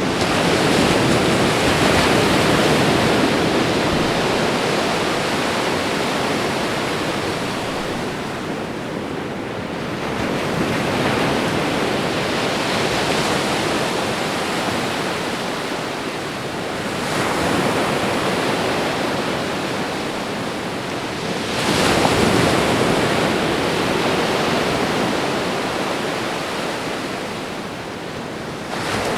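Ocean surf: waves breaking and washing up a shore in a steady rush, swelling with each new wave about four times, several seconds apart.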